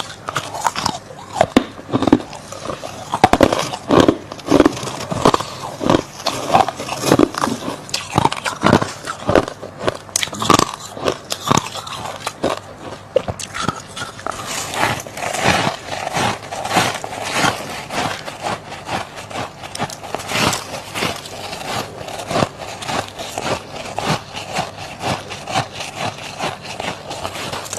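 Close-up crunching of freezer frost being eaten: loud separate bites in the first half, then a quicker, steadier run of chewing crunches.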